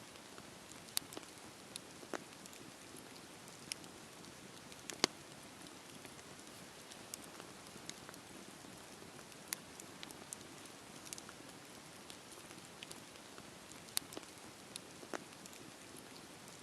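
Wood campfire burning: a soft steady hiss with irregular sharp crackles and pops, a few of them louder, one about five seconds in and another near the end.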